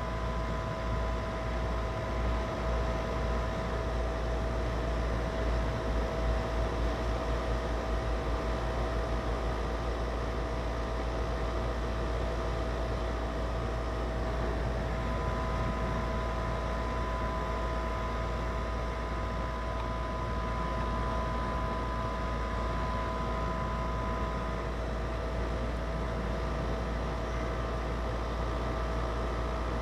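Goodman GSX13 air-conditioner condensing unit running steadily, its compressor and outdoor fan giving a constant hum and hiss with a few steady whining tones. The low hum wobbles and pulses over the first several seconds, and one of the higher tones breaks off about halfway through and stops for good a few seconds later.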